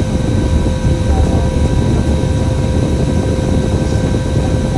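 Steady engine and road rumble of a bus on the move, heard from inside, with a faint steady whine over it.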